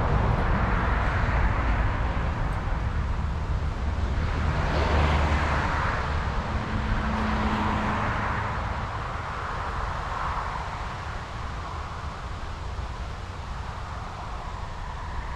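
Strong wind buffeting an action camera's microphone: a deep, fluctuating rumble with gusts that swell and ease, slowly dying down.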